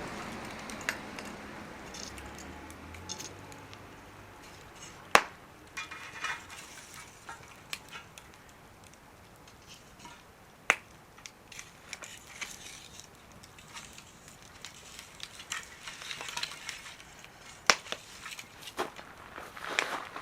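Wood fire crackling, with scattered sharp pops, the loudest about five, eleven and eighteen seconds in. A rushing noise fades away over the first few seconds.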